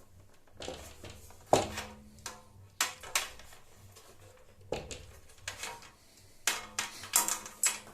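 Irregular knocks and metallic clanks from the parts of a metal router table being handled and turned over, the loudest knock about one and a half seconds in and several more close together near the end.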